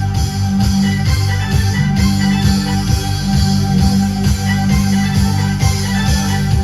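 Live band playing an instrumental stretch with a steady beat.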